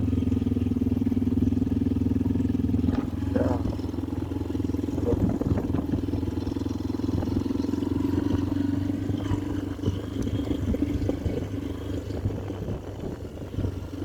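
Motorcycle engine running steadily at low speed while riding, its note holding nearly even.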